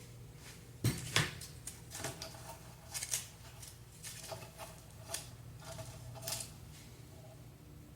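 Light clicks and scrapes of small parts and tools being handled during a fan motor repair, over a low steady hum.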